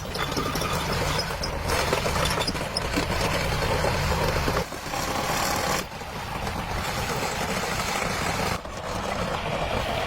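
Mini excavator engine running steadily, the sound changing abruptly a few times, about halfway through and again near the end.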